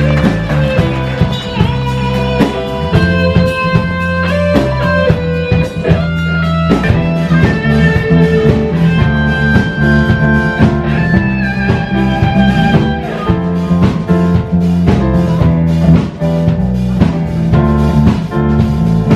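Live band playing an instrumental passage: guitar leading over a steady bass line and a drum kit keeping a busy beat.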